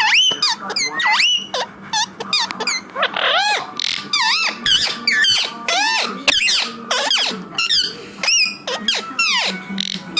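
A parrot calling in a rapid string of short squeaky chirps and whistles, several a second, many of them sweeping up or down in pitch, mixed with sharp clicks.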